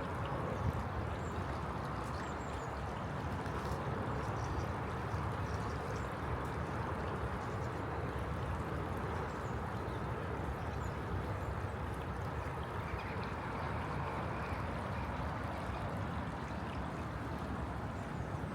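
Steady rushing of fast-flowing floodwater from the swollen River Soar.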